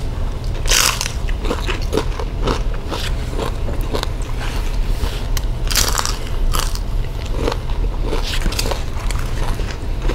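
Close-miked biting and chewing of fried fish eaten by hand, with irregular crunches and crackles and two louder bites about a second in and about six seconds in.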